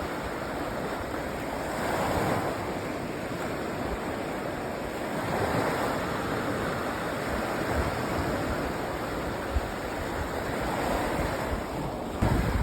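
Sea waves breaking and washing up on a sandy beach, the surf swelling every few seconds. Near the end, wind starts buffeting the microphone with a low rumble.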